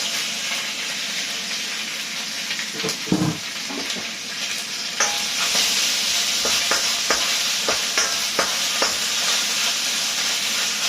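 Velveted chicken pieces sizzling in hot oil in a pan, with a utensil clicking against the pan as the chicken is stirred. The sizzle gets louder about five seconds in, and the clicks come several times a second from then on.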